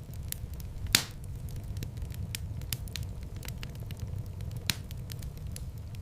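Wood fire crackling with a steady low rumble of flames and frequent sharp pops, the loudest about a second in and another strong one late on.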